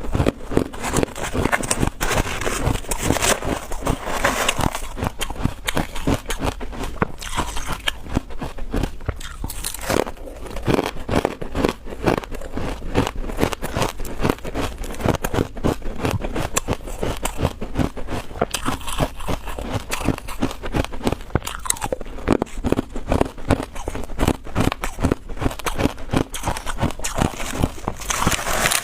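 Freezer frost ice being bitten and chewed: continuous crunching made of many fine, rapid crackles.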